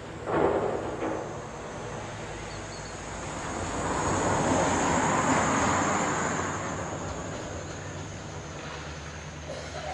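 A vehicle passing by: a wide, even noise that swells for a couple of seconds, peaks about halfway through, then fades away, over a steady low hum. A brief louder sound comes just after the start.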